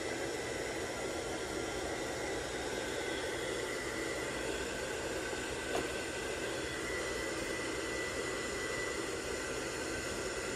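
ILIFE V5s Max robot vacuum running, a steady suction hum with a faint high motor whine, and a single light click a little over halfway through.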